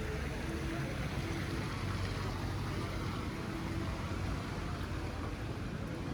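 Steady outdoor city background noise: a low, even hum with no distinct events.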